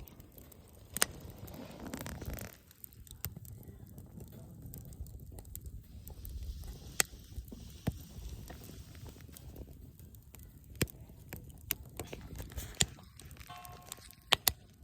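Wood fire burning in a compact wood-burning stove, crackling with sharp irregular pops over a low rushing rumble.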